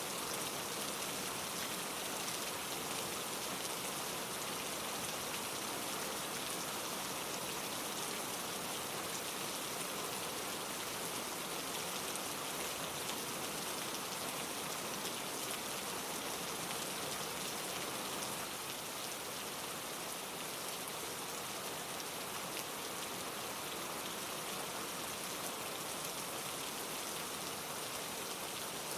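Steady rain: a dense, even hiss of many falling drops, easing very slightly a little past halfway.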